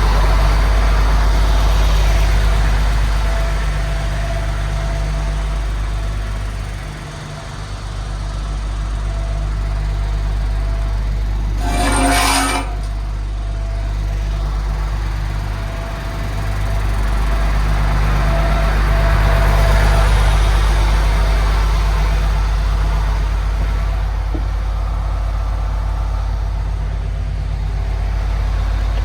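A MAN TGX 18.510 truck's six-cylinder diesel engine idling steadily, with a short hiss about twelve seconds in.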